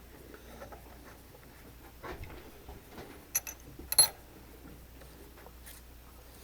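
Tools and small metal parts being handled on a workbench: some soft shuffling, a couple of light clicks, then one sharp metallic clink about four seconds in.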